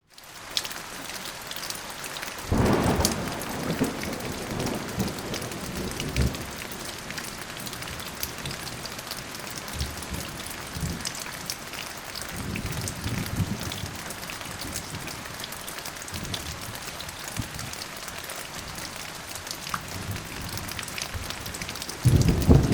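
Steady rain falling, with fine pattering drops, and rolls of thunder rumbling low several times; a louder rumble starts near the end.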